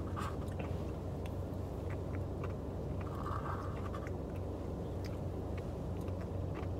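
Chewing a mouthful of cotton candy Blizzard ice cream, with scattered small clicks and scrapes of the spoon, over a steady low hum.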